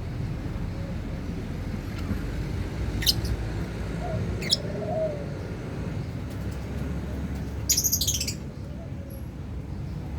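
Lovebirds giving short high chirps: two single chirps, then a quick run of several chirps near the end, over steady low background noise.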